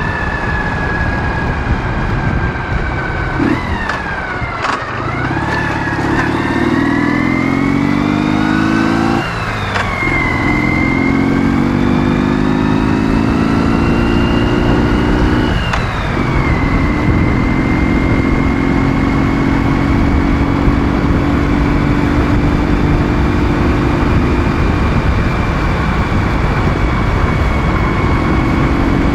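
Ural motorcycle's 650 cc flat-twin engine pulling hard under acceleration, revs climbing and dropping at gear changes about 3.5, 9 and 16 seconds in, then holding a steady cruise. A high whine rises and falls with it.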